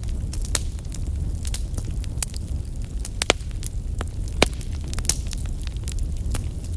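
Wood fire burning in a fireplace: a steady low rumble of the flames with frequent sharp crackles and pops from the burning logs, a few louder pops about three, four and a half and five seconds in.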